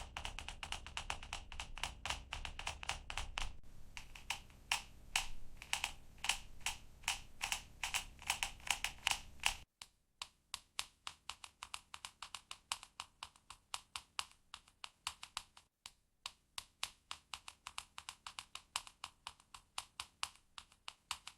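Fingernails tapping on a plastic makeup palette in a steady run of soft, light taps, several a second. About ten seconds in the taps become sparser and crisper.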